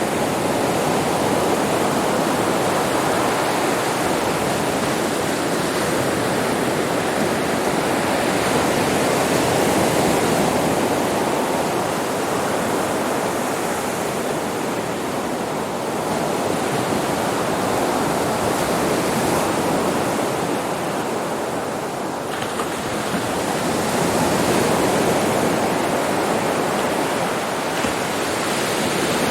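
Sea waves breaking on a beach: a continuous wash of surf that swells and eases slowly every several seconds, with a slight dip about 22 seconds in.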